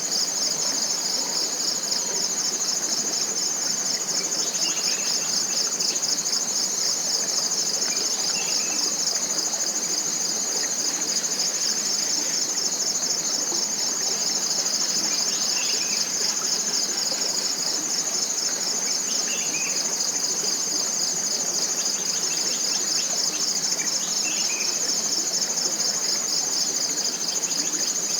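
Steady, shrill chorus of forest insects with a fast pulsing texture, with faint short bird chirps breaking in several times.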